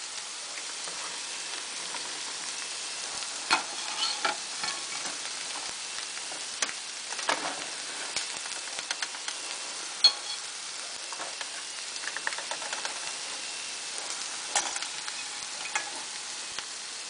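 Fish fillets and hush puppies frying in hot oil, a steady sizzle, with a few sharp clicks of a metal utensil against the pans.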